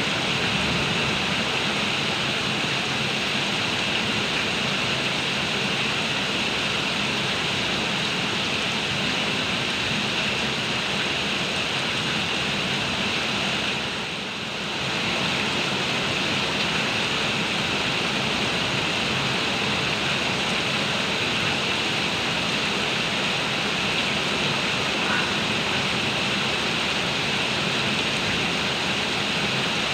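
Heavy rain pouring steadily, a dense even hiss, dipping briefly in loudness about halfway through.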